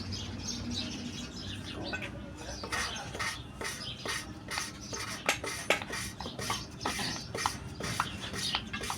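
Valve being hand-lapped into its seat in a Volvo FMX 400 cylinder head with emery grinding compound, to reseal a slightly leaking seat. It makes irregular gritty scraping and clicking strokes, which get denser and louder about two and a half seconds in.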